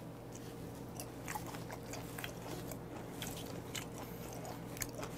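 Close-miked chewing of raw beef spleen: faint, wet mouth clicks and smacks at an irregular pace.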